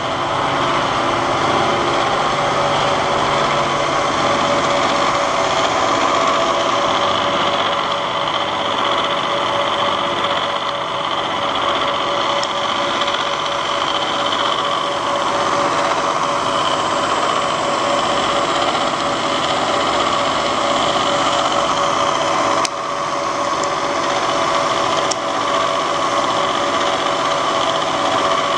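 Bridgeport Series I vertical milling machine running steadily under power, its motor and drive giving an even hum with a constant tone. Two brief clicks come near the end.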